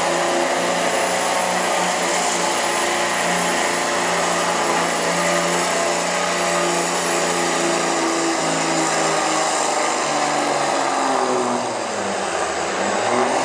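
Dodge 4x4 diesel pickup pulling a sled at full throttle, the engine held at high revs with a steady high-pitched turbo whistle over it. About eleven seconds in, the revs and the whistle drop away as the run ends.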